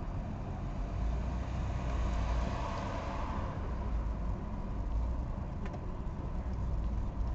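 A vehicle engine running with a steady low rumble, which swells briefly about two to three seconds in.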